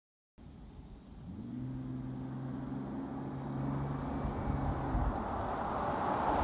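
Ford Explorer Sport Trac's 4.0 single-cam V6 through a Flowmaster Super 40 muffler, holding a steady exhaust drone that cuts in suddenly and grows louder. Near the end the drone gives way to a rising rush of tyre and wind noise.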